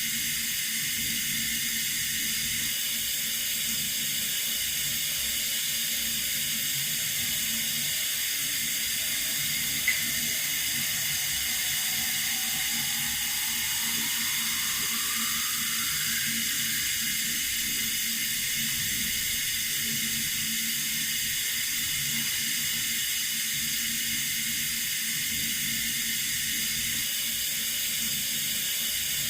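Running water from a tap, a steady even rush. A single short click about ten seconds in, and a faint tone rising in pitch over a few seconds shortly after.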